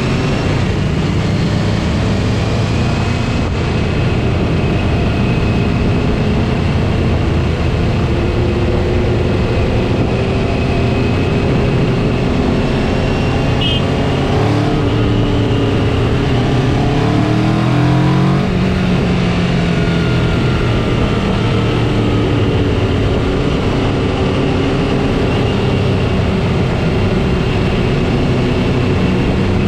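Motorcycle engines running steadily, with the engine pitch sliding up and down briefly around the middle as the revs change.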